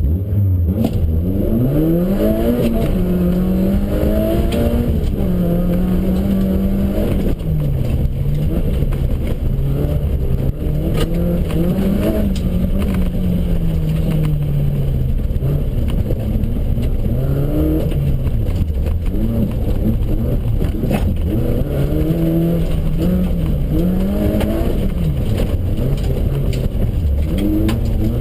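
Off-road competition car's engine heard from inside the car, pulling up from low revs at the start and then rising and falling over and over as it accelerates and backs off along the course. Scattered short knocks come through now and then.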